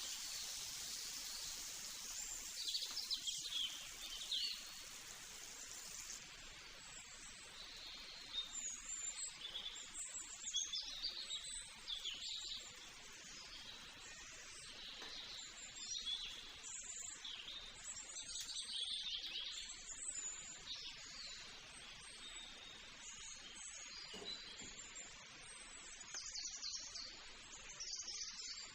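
Birds chirping and calling in short, repeated phrases over a steady background hiss.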